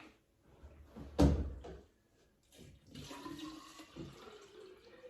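Water pouring into a water bottle, the pitch rising slowly as the bottle fills. A single loud clunk comes about a second in.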